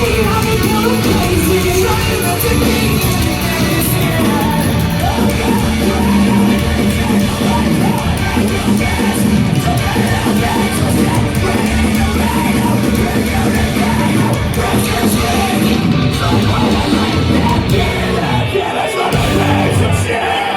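Live heavy rock band playing loud, with singing and yelled vocals over the band.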